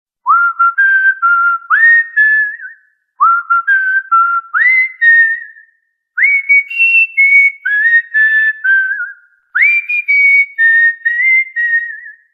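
Cockatiel whistling a short tune in four phrases. Each phrase opens with an upward slide into clear held notes, and the first two phrases are alike.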